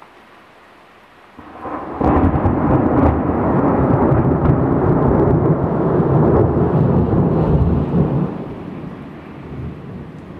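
Steady heavy rain with a loud roll of thunder that builds about a second and a half in, rumbles for about six seconds, then fades away near the end.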